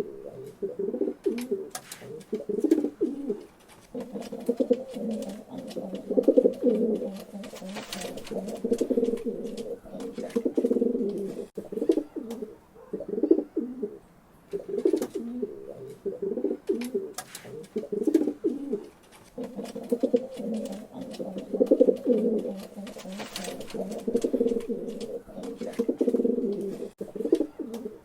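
Pigeons cooing continuously, low repeated coos in overlapping phrases with only brief pauses, and scattered faint clicks.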